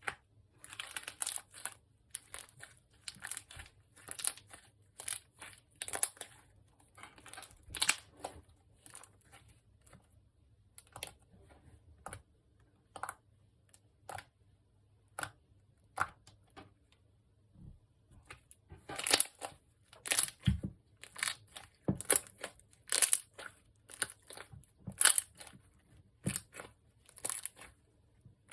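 Slime being worked by hand: repeated squishing strokes about one a second, each a short crackly burst with quiet between, louder in the last third.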